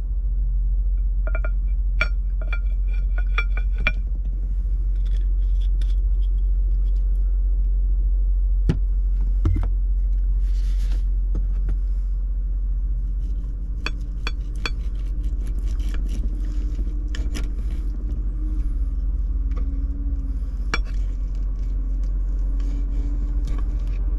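Knife and fork cutting into a pan-fried steak on a plate: scattered clinks, taps and scrapes of metal utensils on the dish, with a quick run of ticks about two to four seconds in. Under it runs a steady low rumble from the idling truck.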